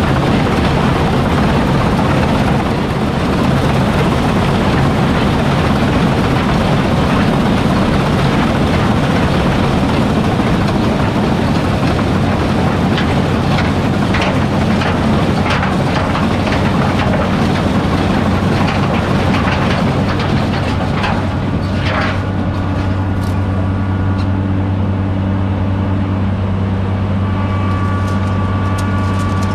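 Heavy farm harvesting machinery running steadily under load, a low engine hum with rattling and ticking mixed in. About two-thirds of the way through it eases a little, and a steady whine comes in near the end.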